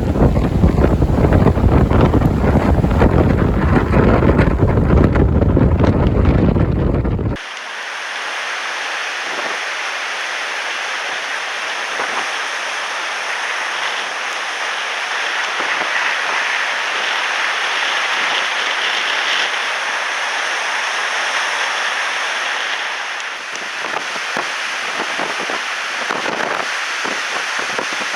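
Strong wind buffeting the microphone with a heavy low rumble, cutting off abruptly about seven seconds in. After that, a steady rushing hiss of wind and waves on the lake.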